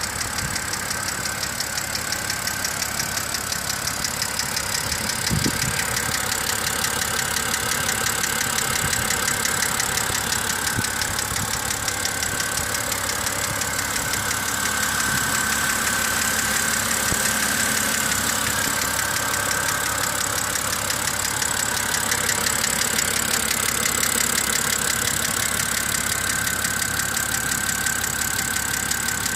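BMW X5 E70 3.0si's N52 inline-six idling with a fast, even ticking from the hydraulic lifters. The owner puts the ticking down to wrong-spec engine oil, long oil change intervals and mostly short trips.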